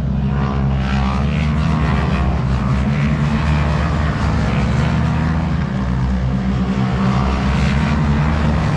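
Racing motorcycle engines running hard on the circuit: a loud, continuous drone whose pitch rises and falls as the bikes are ridden past.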